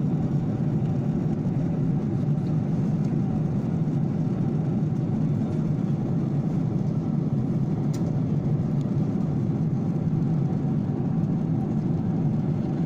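Steady engine and airflow noise heard inside an airliner cabin: an even, deep rush that does not change.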